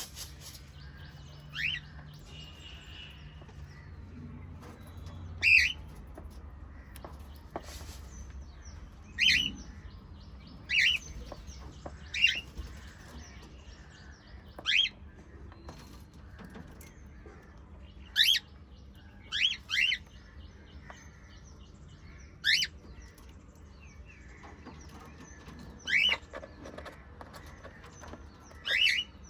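Cockatiel chirping: about a dozen short calls, each sliding quickly upward in pitch, spaced a second or a few seconds apart.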